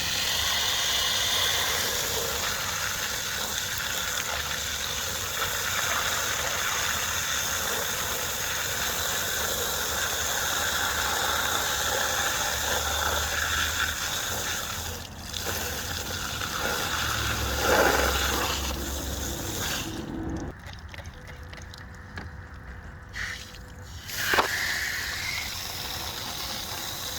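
Strong water spray hissing as it blasts grime and oil off the mower, with a few short surges. The spray cuts off about twenty seconds in, leaving a quieter background with one brief sharp sound a few seconds later.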